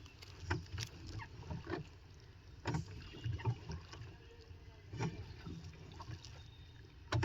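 Water splashing against a small pleasure boat on a lake, with irregular splashes every second or so over a low steady rumble.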